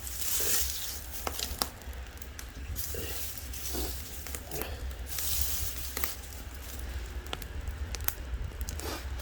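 Firewood burning in a firebox, crackling and popping with many small snaps, and a couple of brief hissing rushes about half a second and five seconds in.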